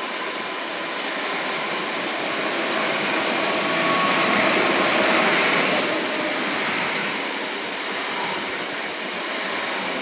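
Electric multiple unit train moving past along the platform: a steady rumble and hiss of wheels on rail with a faint steady whine. It grows louder toward the middle and eases off near the end.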